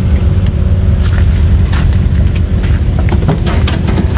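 A vehicle engine running nearby with a steady, deep rumble, with a few sharp clicks around the middle.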